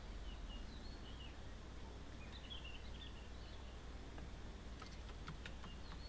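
Faint, short bird chirps in two brief clusters over a steady low outdoor background rumble, with a few sharp clicks near the end.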